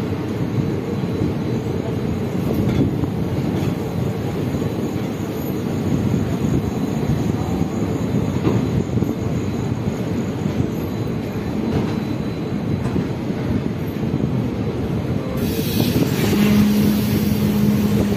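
Passenger train coaches rolling past as the train pulls into the station, a steady rumble of wheels and running gear. Near the end it gets louder, with a hiss and a steady low tone joining in.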